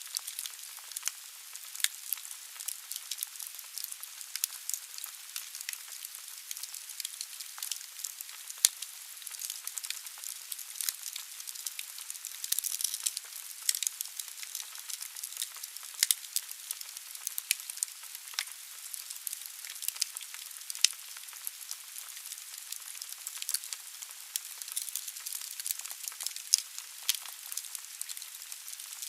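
Wood logs burning in a fireplace: irregular sharp crackles and pops over a steady hiss of flame, with a brief louder hiss a little before halfway.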